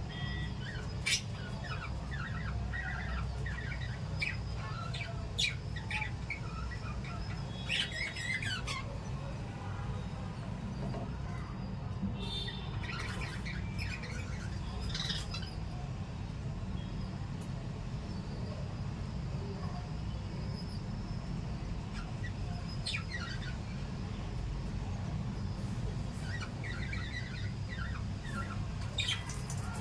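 Pet lovebirds and budgies chirping and twittering in scattered bursts, with a few busier flurries of calls, over a steady low hum.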